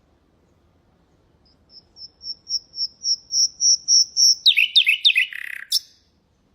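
Common nightingale singing one phrase: a run of repeated high whistled notes that swells steadily louder, then a few quick falling notes and a short buzzy rattle that ends abruptly.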